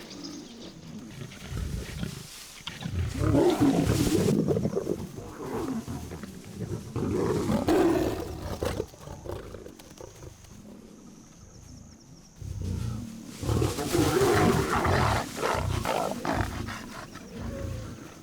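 A pride of lions vocalizing over an impala carcass in three loud, rough bouts separated by quieter stretches.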